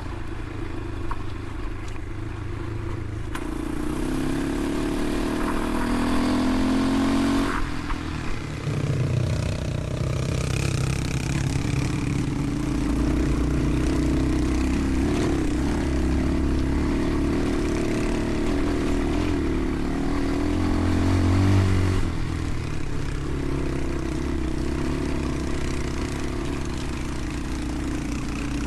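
Motorcycle engine running under way, its pitch rising as it revs up over a few seconds, then dropping at a gear change about seven seconds in and running on fairly steadily.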